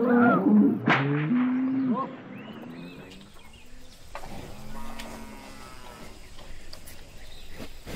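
Cows mooing: a loud moo in the first two seconds, then a quieter, longer moo from about four seconds in.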